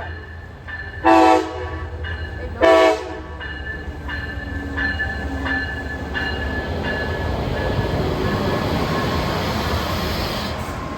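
Passenger train horn sounds two short blasts, about a second and two and a half seconds in, then the train runs past with a steady rumble that builds to its loudest near the end.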